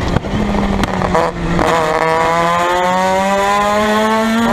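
Formula Mazda race car's two-rotor Mazda 13B rotary engine pulling hard under acceleration: its pitch climbs steadily for about three seconds, then drops sharply at a gear change near the end.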